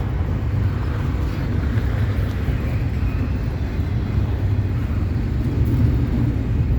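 CSX double-stack intermodal freight cars rolling past at a grade crossing: a steady low rumble of steel wheels on rail with a noisy rattle above it.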